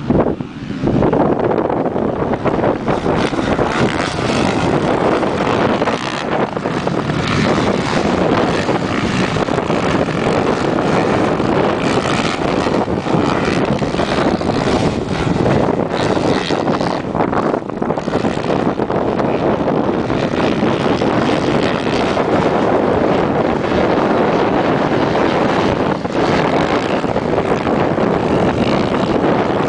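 Motocross bikes racing round the track, their engines making a dense, steady buzzing noise with no let-up.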